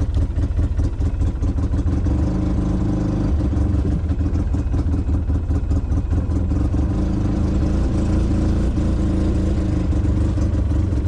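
Motor vehicle engine running steadily under way, with a light rattle over the drone.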